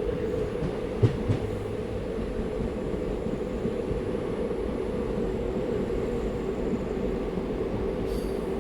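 Passenger train running along the track: a steady rumble with a constant hum, and two sharp clacks about a second in, a quarter of a second apart.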